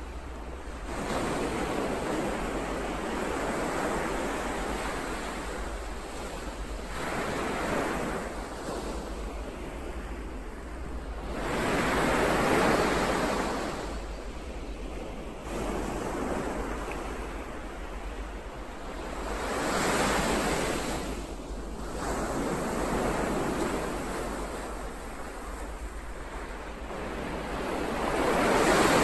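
Ocean surf: waves breaking and washing in one after another, about six surges that each swell and ebb over a few seconds, the loudest about twelve seconds in and at the very end, over a steady low rumble.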